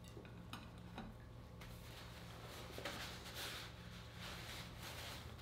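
Faint crunching and chewing of a bite of baked frozen pepperoni pizza with a crisp crust, after two light clicks in the first second.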